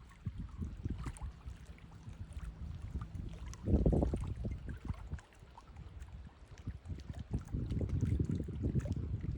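Wind buffeting the microphone in uneven gusts as a low rumble, with a strong surge about four seconds in and heavier gusting in the last couple of seconds.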